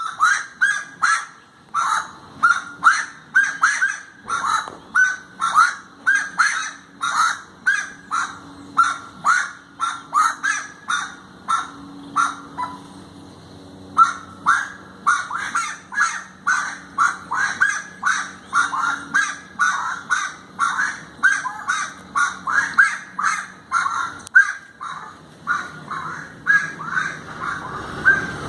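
Bird calls: a long run of short, harsh calls, about two a second, with a brief pause about twelve seconds in.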